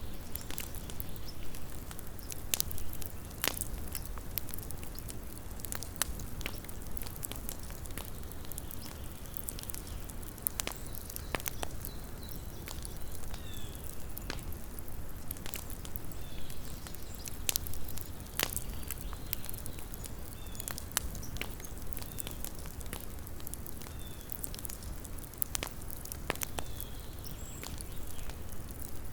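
Small wood campfire crackling, with irregular sharp pops and snaps over a low steady rumble. Faint short high chirps come every second or two through the middle.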